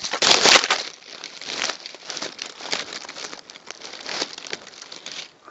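Handling noise from the phone that is recording: irregular rustling and scraping as it is moved and fumbled in the hand, loudest in a burst right at the start.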